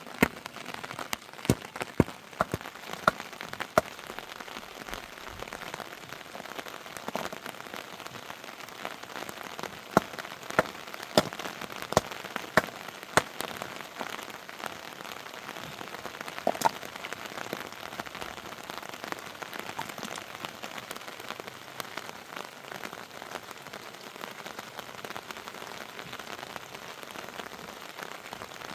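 Steady heavy rain, with loud single drops striking a surface close by as sharp ticks, in clusters near the start and again about a third of the way in.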